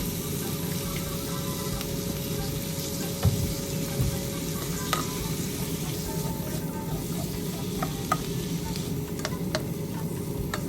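Asparagus sizzling in butter in a frying pan, with a few sharp clicks and scrapes of a utensil against the pan as it is stirred.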